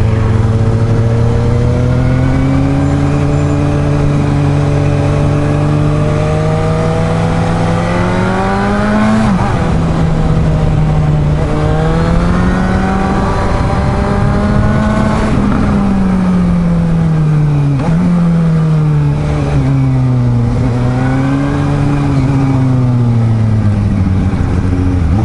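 Suzuki GSR750's inline-four engine under way, its pitch climbing steadily as it accelerates, dropping sharply at gear changes about nine seconds and fifteen seconds in, then falling off and picking up again near the end, with rushing wind and road noise underneath.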